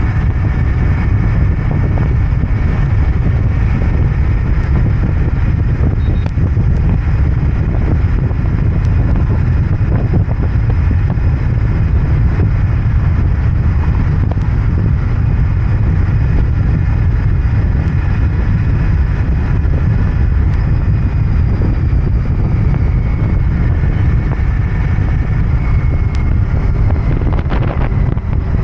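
Royal Enfield Interceptor 650's parallel-twin engine and exhaust running steadily under way, at an even level throughout.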